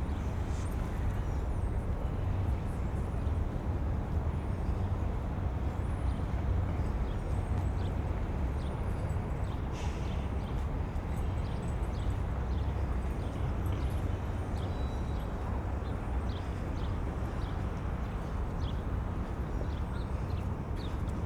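Wind rumbling steadily on the binaural microphones over a waterfront city ambience, with faint scattered chirps and ticks.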